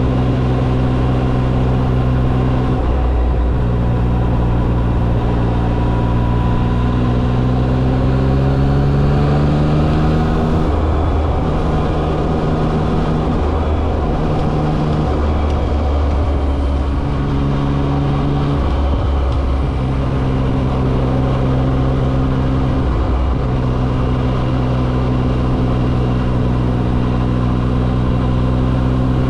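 Yamaha XSR900's three-cylinder engine running under a rider, its note rising steadily for several seconds. It then drops and shifts pitch several times as the bike changes speed and gear.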